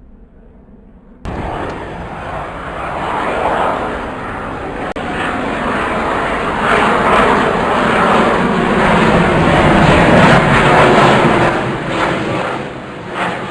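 Fixed-wing aircraft flying past, its engine noise cutting in abruptly about a second in and building to its loudest around ten seconds in before easing slightly.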